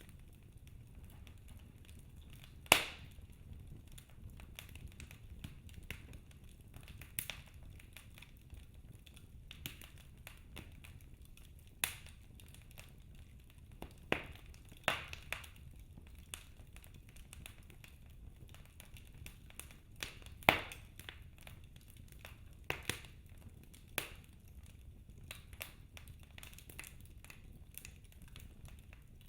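Wood fire burning in a fireplace: logs crackling over a low steady rumble, with scattered sharp pops, a few much louder snaps among them.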